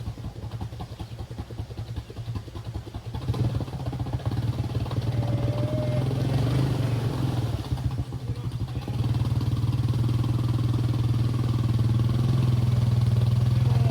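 Can-Am 700 XMR ATV engine running, uneven and low at first, then steadier and louder from about three seconds in and louder again from about nine seconds in as the revs come up.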